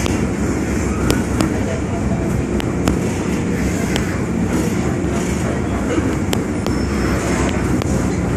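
MTR Island Line train running between stations, heard from inside the car: a steady rumble from wheels on rail and the traction equipment, with scattered sharp clicks.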